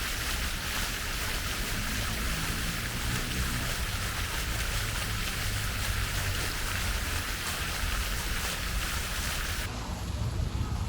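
A steady rushing noise over a low rumble, which cuts in suddenly and stops just as suddenly near the end.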